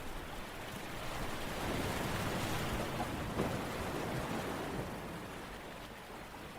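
Steady rushing noise that swells for a few seconds in the middle, with a low rumble underneath, then eases back.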